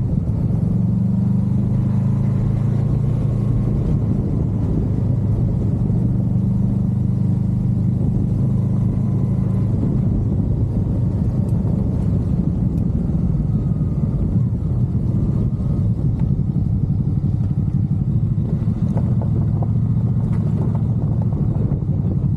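Motorcycle engine running under way, its note holding steady for the first ten seconds or so, then turning rougher and more uneven.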